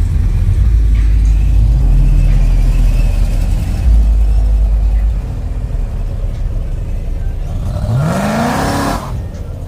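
A car engine rumbling low, then revving once about eight seconds in, its pitch rising for about a second before it drops back.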